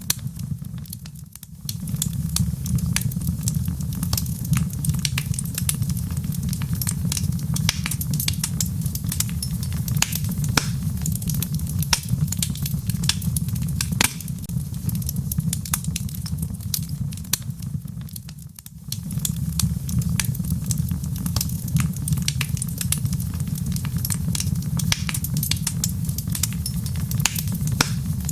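Wood fire burning in a fireplace: logs crackling with many sharp pops over a steady low rumble of the flames, dipping briefly twice.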